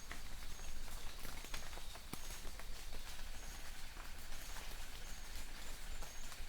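Light rain in a forest, with individual drops ticking irregularly on leaves and ground over a steady hiss. Distant birds call with short high notes that repeat about once a second.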